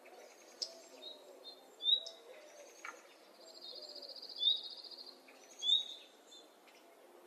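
Songbirds calling: short sharp chirps several times, and a rapid high trill about three and a half seconds in that lasts about a second and a half.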